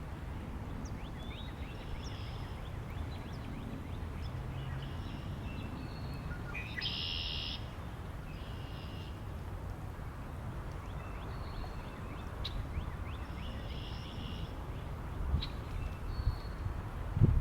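Birds giving short, scattered chirps and calls over a steady low wind rumble, with a few stronger gusts near the end.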